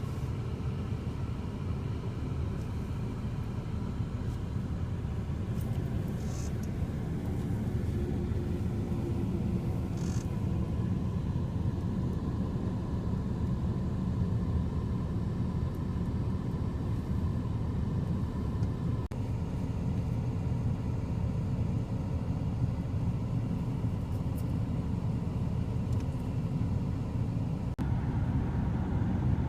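Steady low rumble of a road vehicle running, with a faint steady engine hum.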